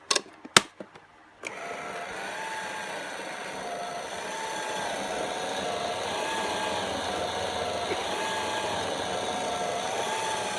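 A few clicks as the toy washing machine is switched on, then it runs its wash cycle: a steady whirr with a tone that rises and falls about every second and a half. It stops suddenly near the end.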